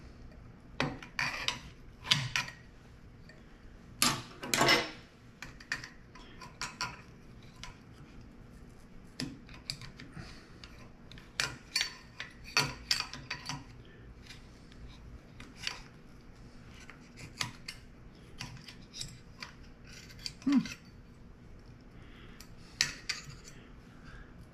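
Irregular small metal clicks, taps and brief scrapes as a keeper snap ring is worked and pushed into a Mag-Lite flashlight with a tool. The loudest cluster comes about four seconds in.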